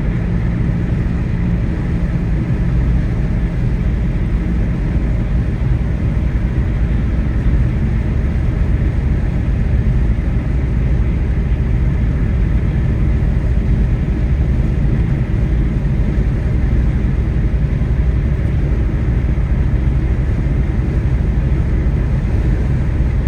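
Steady low rumble of a moving car: road and engine noise at an even speed.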